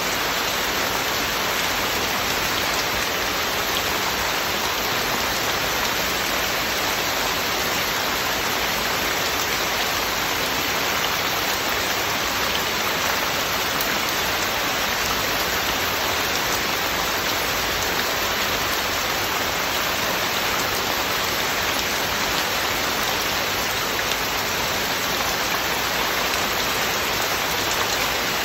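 Heavy rain falling steadily: an even, unbroken hiss of rain on surfaces.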